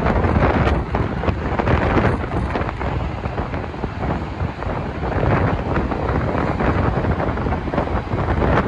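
Two coupled DSB IC3 (Litra MF) diesel trainsets passing the platform: a loud, steady rush of wheel and air noise, with wind buffeting the microphone.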